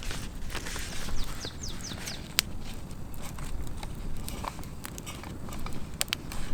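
A bird calling: a quick run of about five falling high chirps a little over a second in. Scattered sharp clicks and snaps continue over a steady low rumble.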